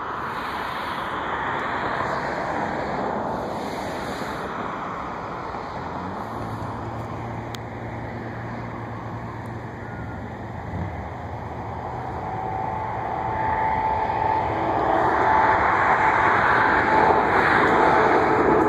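Jet airliner passing: a steady rumble that grows louder over the last several seconds as a thin whine comes in.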